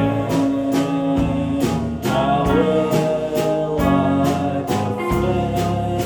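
Live band playing a song: a singing voice over guitar, with a steady beat of about two hits a second.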